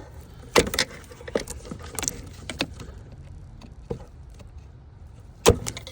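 Plastic clips and tabs clicking and rattling as they are pressed and pried by hand. There are scattered sharp clicks throughout, with two loudest snaps: one about half a second in and one near the end.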